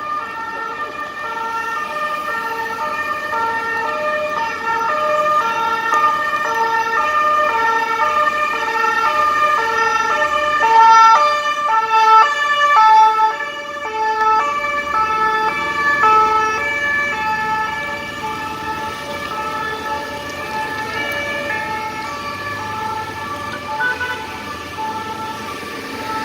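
Several French police two-tone sirens sounding together as a convoy of police cars and motorcycles passes, their alternating notes overlapping. They grow louder towards the middle, then ease off as the convoy moves on.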